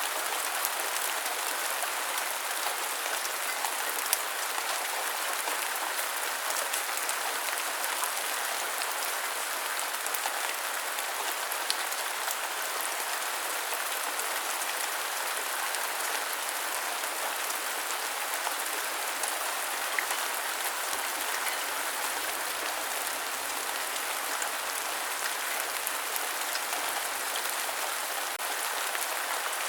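Steady rain falling, an even hiss with scattered individual drops ticking and a few sharper drop hits.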